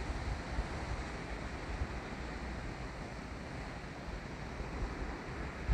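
Ocean surf with wind blowing over the microphone: a steady wash of noise with an uneven low rumble from the wind.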